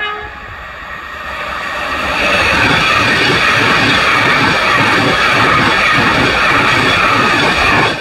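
LNER express passenger train passing close by at speed, after a short horn note at the very start. Its noise builds over the first two seconds. Then come about six seconds of loud wheel-on-rail rumble with a rapid beat from the wheelsets, which drops away suddenly as the last coach clears.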